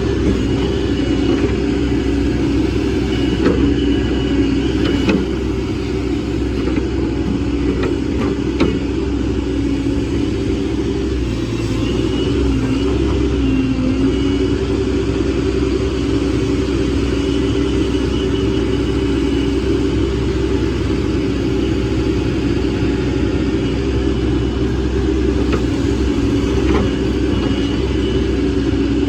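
Hydraulic excavator's diesel engine and hydraulics running steadily while digging. The pitch dips briefly about halfway, and there are a few knocks in the first nine seconds.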